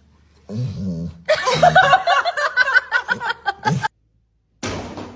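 A person laughing in quick repeated bursts for about two and a half seconds, cutting off suddenly.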